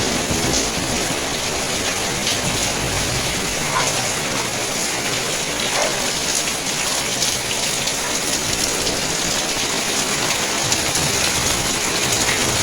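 Steady heavy rain falling: a dense, even hiss with faint scattered drip ticks through it.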